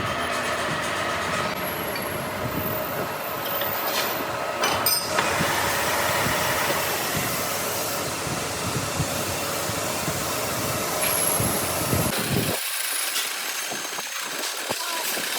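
Steady mechanical noise from workshop machinery, with no clear rhythm. About twelve seconds in the deep part of the sound drops away abruptly, leaving a thinner, higher noise.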